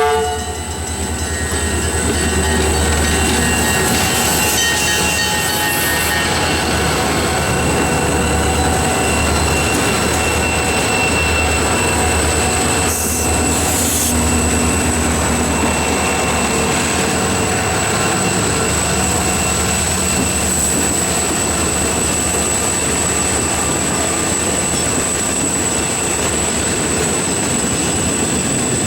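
Freight train rolling past: a steady low rumble and clatter of cars on the rails, with a thin, steady high-pitched wheel squeal over it.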